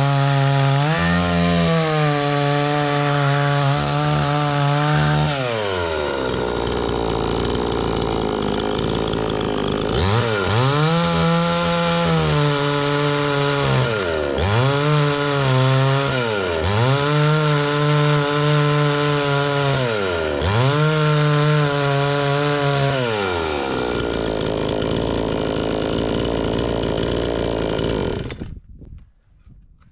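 Two-stroke chainsaw running at high revs. Its pitch sags and recovers several times as it bogs down under load while cutting wood, with stretches of rough noise in between. The sound cuts off abruptly near the end.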